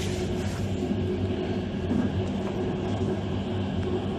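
Passenger train running along the line: a steady rumble of wheels on track with a low hum underneath, heard from inside the carriage.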